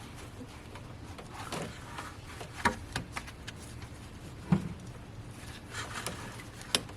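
Scattered metallic clicks and knocks of a hand tool against engine-bay parts while working at the belt tensioner, with a duller thump about four and a half seconds in.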